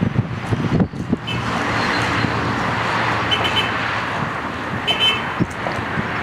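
Air Tractor AT-802's Pratt & Whitney PT6A turboprop running with a steady, loud whooshing drone. Wind buffets the microphone in the first second.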